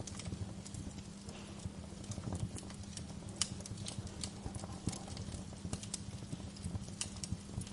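Wood fire crackling in a fireplace: irregular sharp pops and snaps over a low, steady rumble of the burning logs, with the loudest pops about three and a half and five seconds in.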